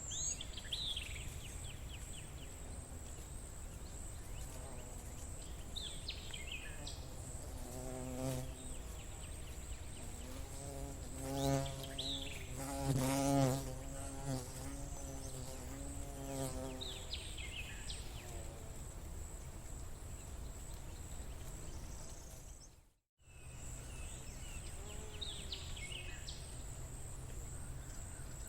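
A flying insect buzzes past, its hum wavering in pitch and loudest around the middle, over a steady high-pitched tone and a few short falling bird chirps. The whole sound cuts out for a moment about two-thirds of the way through.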